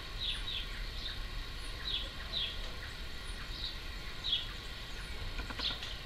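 Outdoor bird chirping: about eight short, high notes, each falling in pitch, come at irregular intervals, some in quick pairs. Steady low background rumble lies underneath.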